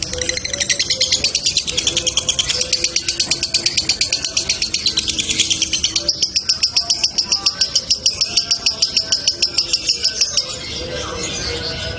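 Lovebird giving a long 'ngekek': a fast, evenly pulsed, high-pitched chattering trill that runs unbroken for about ten seconds, then breaks into softer, irregular chatter. This kind of long, tightly spaced ngekek is called 'konslet' by lovebird keepers.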